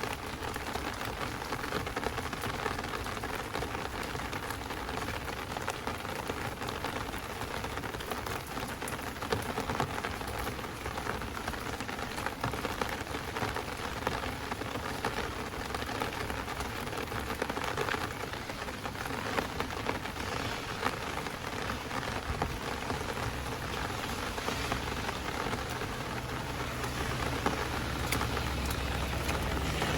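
Heavy rain pouring down, a dense steady hiss full of sharp, close drop hits. A low rumble builds in under it near the end.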